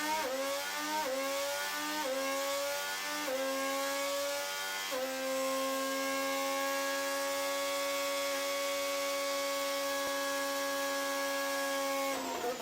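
Honda's 2026 Formula 1 1.6-litre turbocharged V6 hybrid power unit running at high revs. It climbs in pitch through four quick upshifts in the first five seconds, the note dropping briefly at each shift, then holds a steady high-pitched note for about seven seconds.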